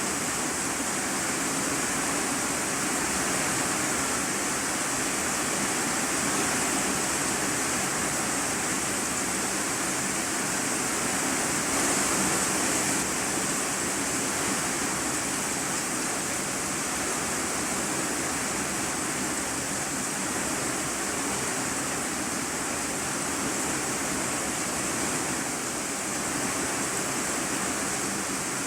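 Heavy rain drumming on a corrugated iron-sheet roof, heard from the room beneath as a dense, steady hiss with no let-up.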